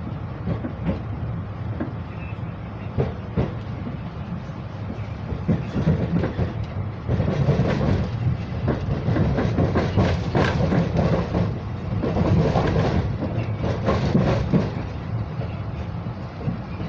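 TER regional train rolling slowly through the station yard, heard from inside the carriage: a steady low rumble with irregular clicks and clatter as the wheels run over points and rail joints. It grows louder about seven seconds in.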